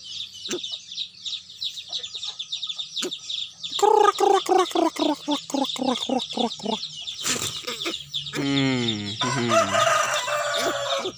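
Birds calling. High chirping runs throughout, with a loud run of rapid clucking calls from about four seconds in, and a longer falling call followed by a rougher call near the end.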